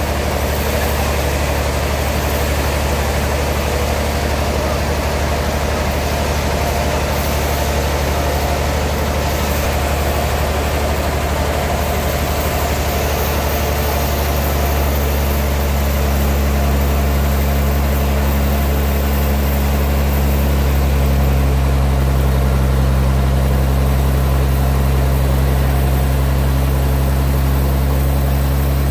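Engine of a portable sawmill running steadily, a low even drone that grows slightly louder and firmer about halfway through.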